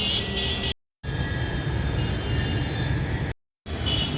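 Steady road and engine rumble heard inside a car's cabin as it cruises at highway speed, around 100 km/h. The sound cuts out completely twice, briefly.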